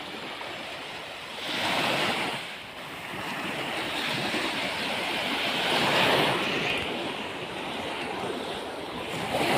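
Sea waves washing onto the shore, swelling up about two seconds in and again more broadly around six seconds.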